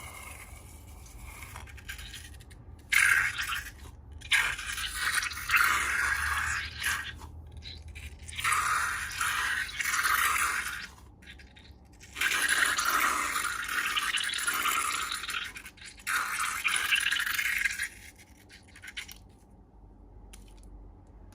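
Slime being mixed and squished, a wet scraping sound in about five bursts of a few seconds each with short pauses between them. The last few seconds are quieter.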